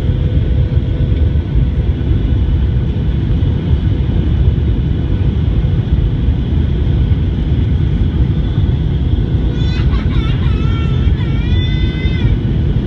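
Steady, loud engine and airflow noise heard inside an airliner cabin on its approach to landing.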